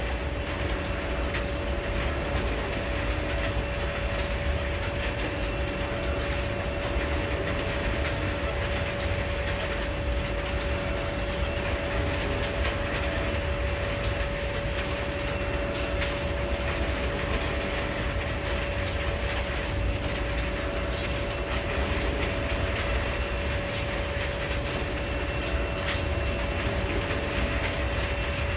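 Freight cars rolling past on the rails: a steady low rumble of steel wheels with clickety-clack over the rail joints. A steady whine sits over the rumble.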